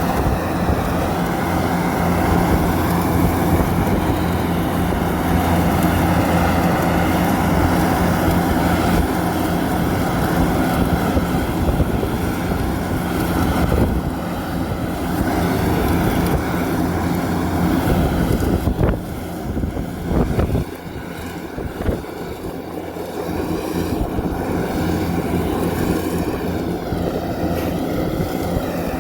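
Kubota DC70 combine harvester's diesel engine running steadily under load, a loud even drone, easing off briefly about two-thirds of the way through with a few knocks.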